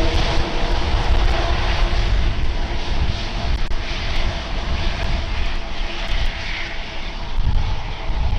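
Air India Airbus A350-1000 jet airliner passing with its Rolls-Royce Trent XWB engines: a loud, steady roar with a deep rumble and rushing hiss. A faint whine fades out in the first couple of seconds.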